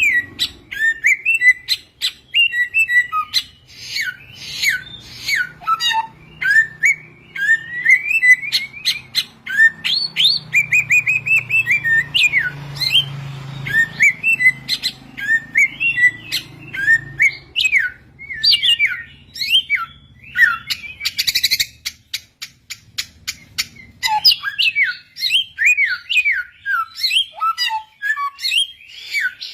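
Samyong songbird singing a fast, varied run of sliding whistles and chirps, mixed with short sharp clicking notes, with hardly a pause.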